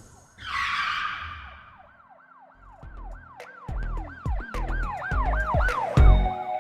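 Intro sound effects: a brief whoosh-like noise burst, then a siren-like yelp sweeping up and down about three times a second over low bass hits, with a sharper hit near the end.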